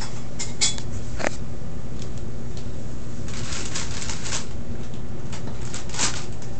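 Refrigerator machinery running with a steady low hum, with light rustles and clicks of handling over it.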